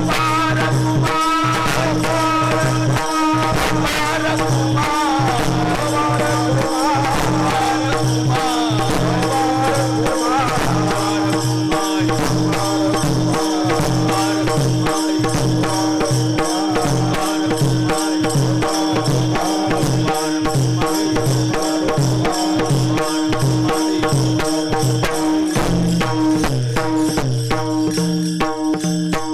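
Devotional kirtan music: a steady held drone under fast, regular percussion strikes, with a wavering melodic line over it in the first half. Near the end the percussion stops and only the drone rings on.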